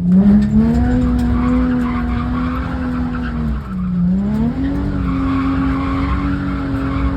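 Infiniti G35's VQ35DE V6 revved hard and held at high revs while the rear tyres spin and squeal in a drift. The revs dip briefly about halfway through, then climb and hold again.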